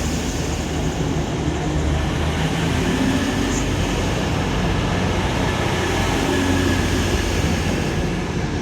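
East Midlands Railway Class 222 Meridian diesel multiple unit, its underfloor diesel engines giving a steady drone as it runs along the platform.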